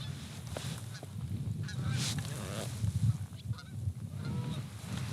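Geese honking: many short calls, several overlapping, scattered throughout.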